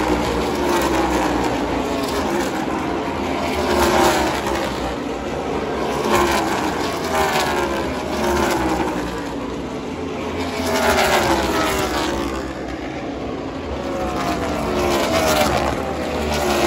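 NASCAR race cars' V8 engines passing at speed one after another, each engine note dropping in pitch as it goes by, every second or two.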